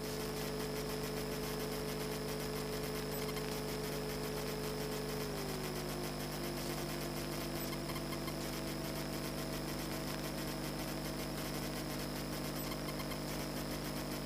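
Europa light aircraft's engine running at low power while taxiing after landing, a steady drone of several held tones. Its pitch drops slightly about five seconds in as the revs come down.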